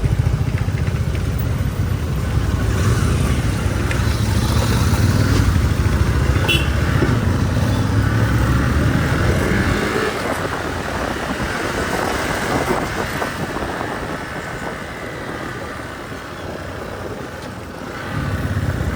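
Motorcycle engine running while the bike is ridden slowly. The engine's low note drops away about halfway through, then comes back near the end.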